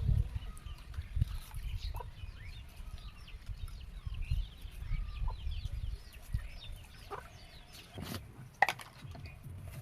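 Chickens clucking, with many short high chirps throughout and a few louder calls near the end, over a low rumble.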